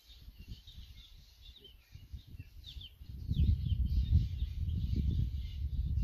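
Small birds chirping repeatedly. About halfway through, a louder, uneven low rumble comes in and continues.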